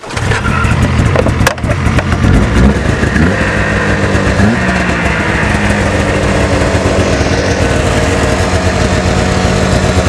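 1998 Ski-Doo Grand Touring 500 snowmobile's two-stroke engine on a cold start, coming in suddenly and running unevenly for the first few seconds, then settling into a steady run.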